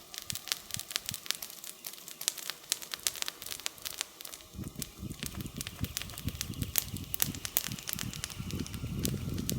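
Wood campfire crackling, with frequent sharp pops and snaps. About halfway through a low rumble joins in beneath the crackles.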